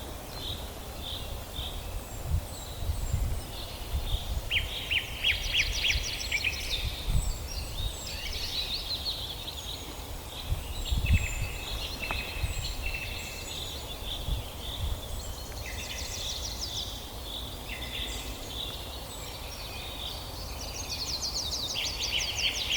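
Several songbirds singing at once in woodland, their songs overlapping as fast runs of repeated high notes and trills, with a low rumble underneath.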